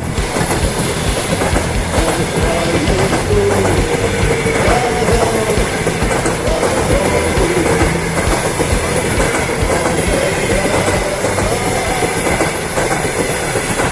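Steady running noise of a moving vehicle with a repeated strange knocking.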